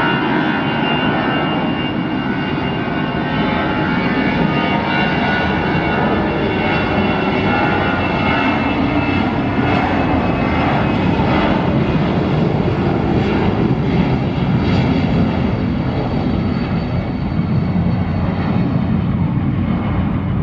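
Jet airliner engines running loud and steady, several high whining tones over broad engine noise.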